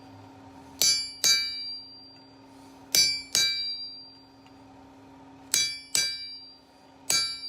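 Hammer blows on a chisel splitting a steel bar on an anvil: ringing metallic clangs, mostly in pairs about half a second apart, every couple of seconds, seven in all.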